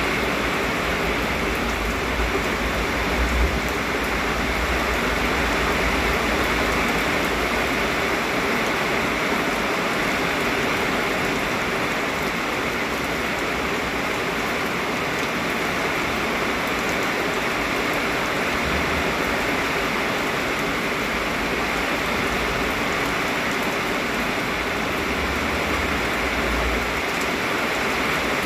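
Heavy rain pouring steadily, a dense, even hiss, with a few brief low rumbles of wind.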